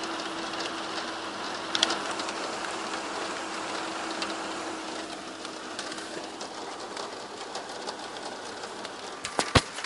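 Steady rain, with a steady low, unexplained hum under it that fades out about halfway through. A sharp click or knock about two seconds in, and a cluster of louder clicks near the end.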